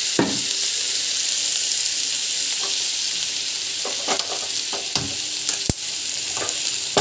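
Chopped onions sizzling steadily in hot oil in a pan while a metal spatula stirs them, with a few scraping knocks of the spatula against the pan and one sharper clink about two-thirds of the way through.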